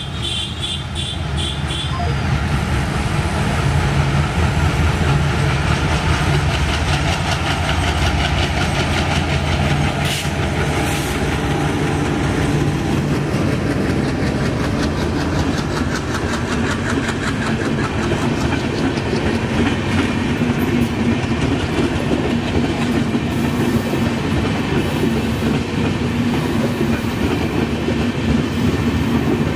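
Maitree Express passenger coaches rolling past, the wheels clattering steadily over the rail joints.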